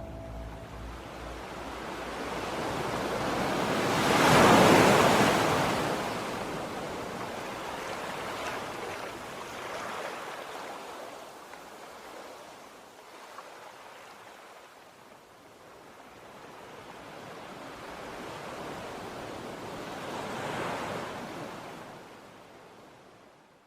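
Ocean surf: waves washing in, a loud swell peaking about four seconds in, a softer one near the end, then fading out.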